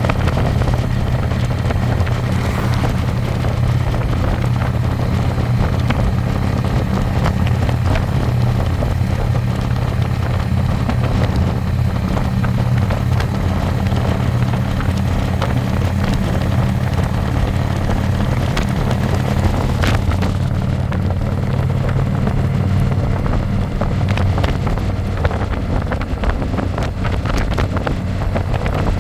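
Harley-Davidson Electra Glide's V-twin engine running at a steady cruising note, heard from the passenger seat with wind buffeting the microphone. The engine note grows weaker near the end while the wind noise stays.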